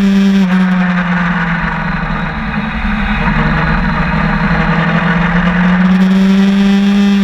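Sportbike engine heard onboard at track speed, over wind noise. The engine note drops about half a second in as the throttle closes, then rises steadily through the second half as the rider drives out of the corner.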